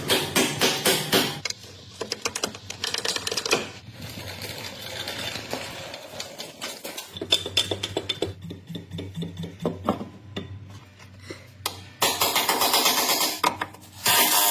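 Rapid mechanical clicking and clattering of mechanic's tools at work on a car's suspension, with louder stretches of noise at the start and near the end.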